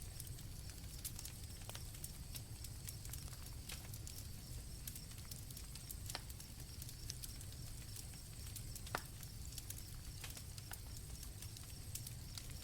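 Campfire crackling with scattered sharp pops, one louder about nine seconds in, over a low steady rumble, with crickets chirping steadily at a high pitch.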